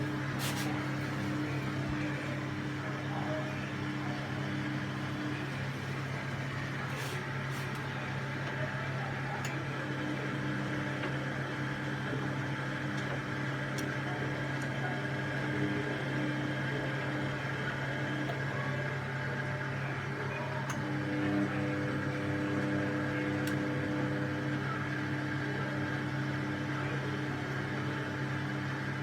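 Washing machine running with a steady motor hum, with a few faint clicks.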